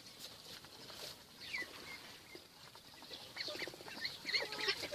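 Domestic ducks and chickens giving scattered, faint short calls and chirps, growing busier near the end.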